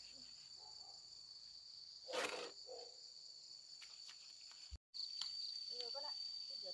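Steady high-pitched insect chorus, a continuous shrill buzz. About two seconds in there is a brief noisy scrape or rustle, and just before five seconds the sound cuts out for an instant before the insects resume slightly louder.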